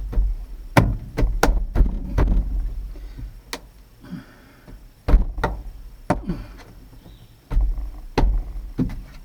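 A series of sharp clicks and knocks at irregular intervals, about a dozen, the loudest about five seconds in, as of small parts and hand tools being handled during work on a truck door handle.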